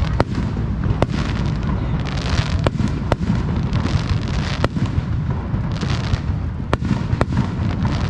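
Aerial fireworks display: sharp bangs of shells bursting about once a second over a continuous low rumble of launches and echoes, with two spells of crackling from glitter effects.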